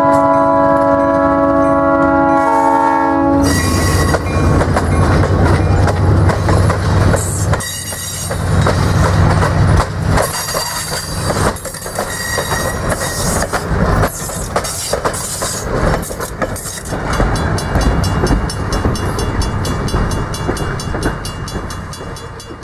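EMD SW1200 switcher #1202's three-chime Nathan P3 air horn sounds a chord that cuts off about three seconds in. Then the diesel locomotive and its train pass close by: the 12-cylinder engine runs under load and the wheels clatter over rail joints, fading at the end.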